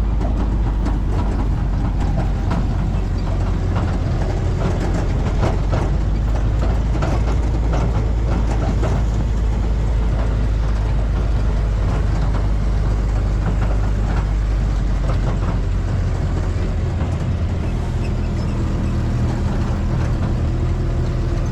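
1952 M38A1 military Jeep's Willys F-head four-cylinder engine running steadily while driving, with scattered rattles and clatter.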